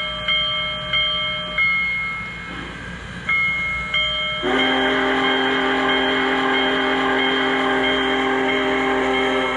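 Sound system of an MTH O-gauge Union Pacific Big Boy 4014 model steam locomotive: its bell rings in strikes about every half second, then a long steam whistle blast starts about four and a half seconds in and holds steady.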